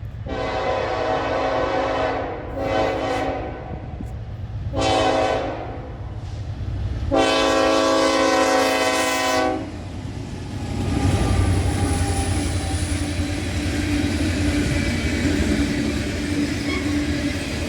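Freight train diesel locomotive horn sounding four blasts for a grade crossing, the last blast the longest. The locomotive then passes close by, with a low engine rumble and rail noise from the wheels on the track.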